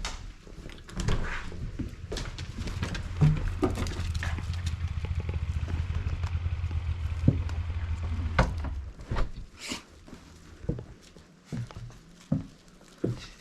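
Footsteps with scattered knocks and clicks, over a steady low rumble that starts about a second in and stops at about nine seconds.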